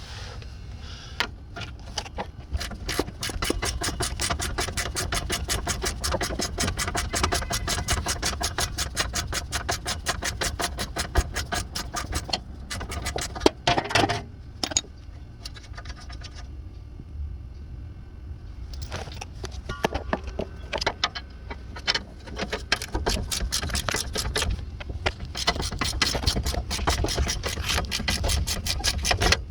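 Ratchet wrench clicking rapidly and steadily in two long bouts, the first from about a second in and the second from about two-thirds of the way through, with a few separate metal knocks between them.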